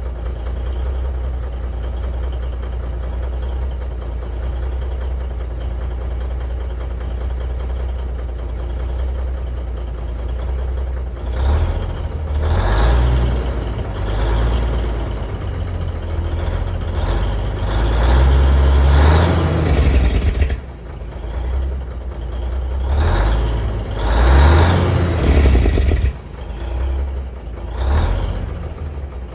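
Cummins Big Cam I 400 inline-six diesel in a truck running steadily, then its Jake brake (engine compression brake) applied in several surges of a few seconds each, a rapid muffled bark through the stock mufflers.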